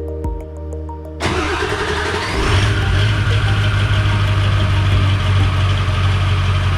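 An engine starting about a second in and then running at a steady idle.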